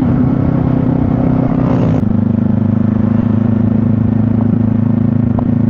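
Motorcycle engine running steadily on the move, its note shifting abruptly to a slightly different pitch about two seconds in.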